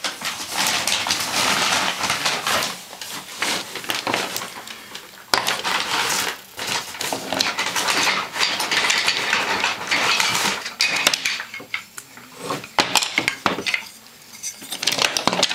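Toy trains clattering and clinking against one another and the track as a toddler handles them: a dense run of small clicks and rattles, thinning out to scattered clicks in the last few seconds.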